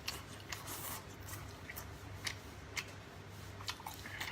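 Scattered soft, wet clicks and smacks of someone chewing food with their mouth close to the microphone, over a steady low electrical hum.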